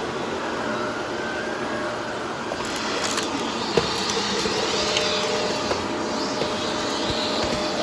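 Vacuum cleaner running steadily with a constant hum. From about two and a half seconds in, fine crackling and scattered sharp clicks join it, one louder click a little later.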